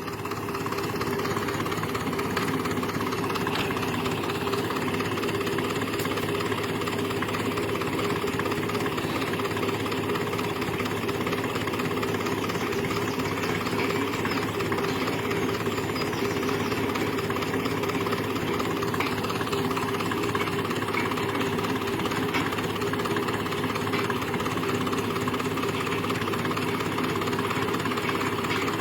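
Grey Ferguson tractor's engine running steadily at an even speed, with no revving.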